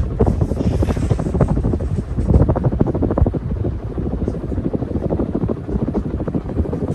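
Air from running ceiling fans buffeting the microphone: a steady, dense rumble with rapid, irregular flutter.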